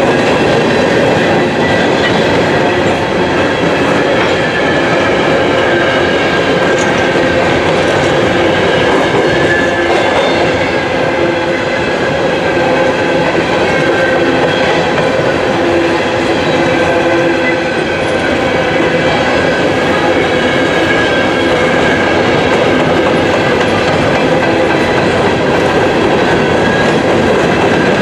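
Empty open-hopper coal cars of a freight train rolling past: a loud, steady rumble of steel wheels on the rails, with a faint high ringing from the wheels.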